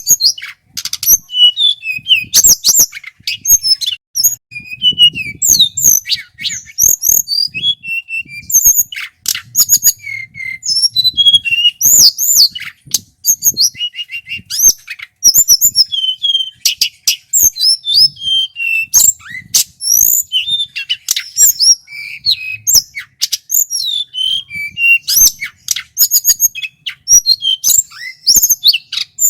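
Male tledekan gunung flycatcher singing without pause: rapid, high twittering phrases of quick whistled slides and trills, with sharp clicking notes mixed in.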